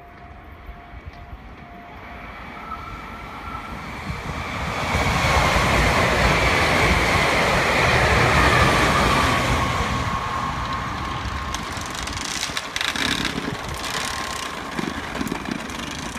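Meitetsu electric train going by: the rumble and rush build up, are loudest in the middle with a whine that drops in pitch as it passes, then ease off as it draws away.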